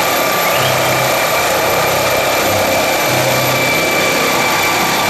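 Turbine helicopter lifting off its landing pad: a steady high engine whine over a dense, even noise of the spinning rotor.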